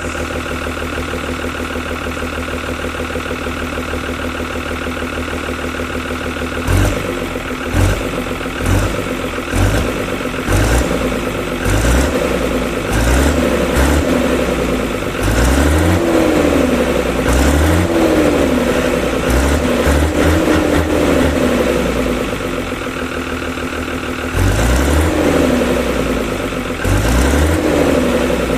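Fiat 1000 tractor's diesel engine idling steadily. About seven seconds in it is blipped on the throttle again and again: short quick revs at first, then longer revs that rise and fall back to idle.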